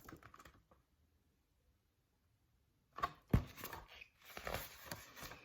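A picture-book page being turned, about three seconds in: a sharp click, then paper rustling.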